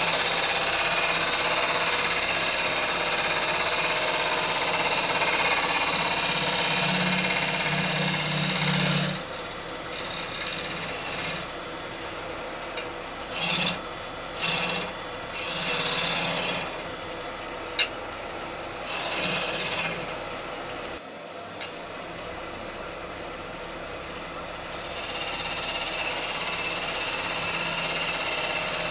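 Bowl gouge cutting a spinning rowan-wood bowl on a wood lathe: a steady scraping hiss for about the first nine seconds, then a quieter stretch with only the lathe humming and a few short cuts, before steady cutting resumes near the end.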